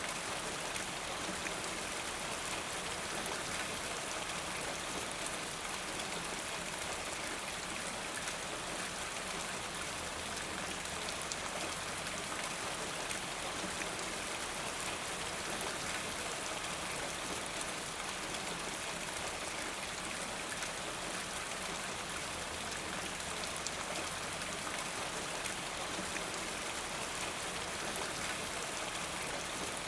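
Steady rain: an even hiss with many small drop ticks, unchanging in level.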